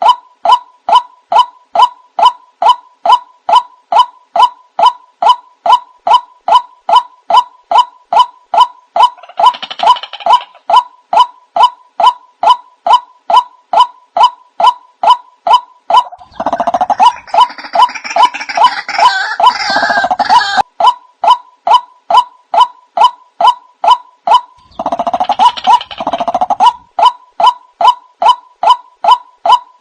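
White-breasted waterhen (ruak-ruak) lure call: a single pitched note repeated evenly about twice a second, without a break. Three times a louder rush of noise lies over it, the longest lasting about four seconds around the middle.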